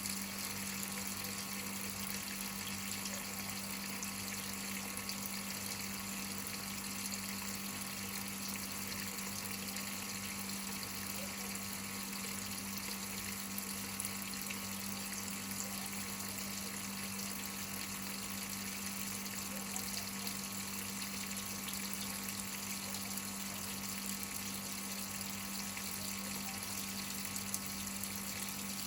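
Whirlpool top-load washing machine filling: a steady rush of water into the tub over a constant low hum.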